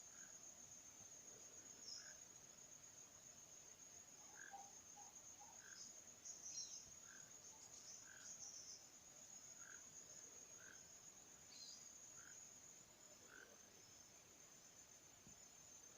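Faint outdoor animal sounds: a steady high-pitched insect trill, with a short lower call repeating about once a second.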